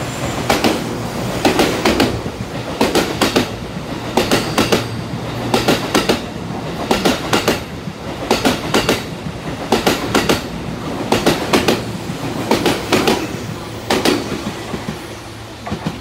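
JR 215 series double-decker electric train passing through a station at speed. Its wheels clatter over the rail joints in regular groups of clicks about every second and a half, over a steady low hum. The clatter eases off near the end as the train draws away.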